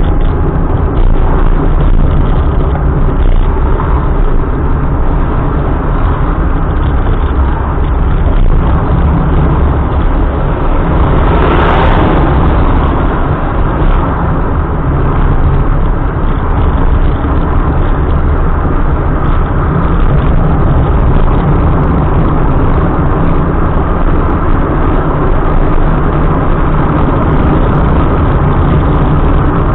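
A car driving, with steady, loud, low engine and road noise and a brief louder rush about twelve seconds in.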